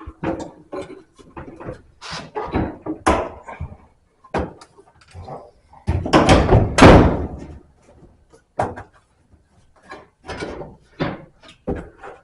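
Sheet-metal dryer cabinet parts, the drum and front panel, knocking and clunking as they are worked into place. A run of separate knocks, with the loudest and longest clatter about six to seven seconds in.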